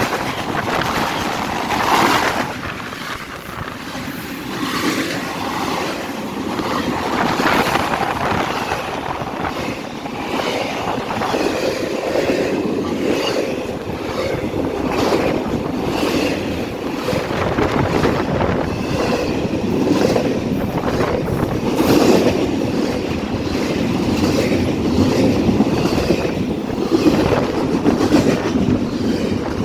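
Freight cars of a passing freight train rolling by at speed: a steady rumble of steel wheels with a running series of clacks over rail joints.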